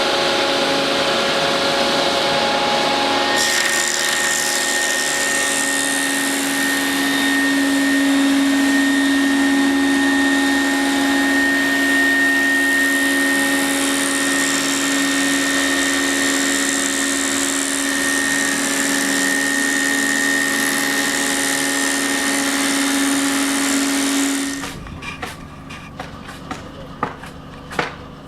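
ЦМ-800 multi-rip edging saw, its 11 kW-driven 250 mm circular blades running steadily with a loud hum and hiss; a higher whine joins about three seconds in. The machine sound cuts off abruptly about 24 seconds in, leaving a few scattered knocks.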